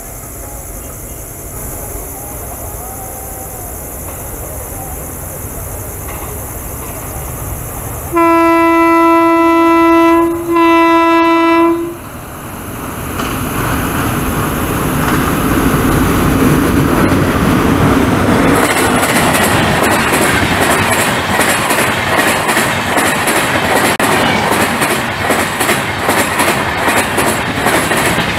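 A WAP-7 electric locomotive sounds its horn in two long blasts about eight seconds in. The noise of the approaching express then swells into the rush of its coaches passing close by, with rapid, rhythmic clickety-clack of the wheels over the rail joints.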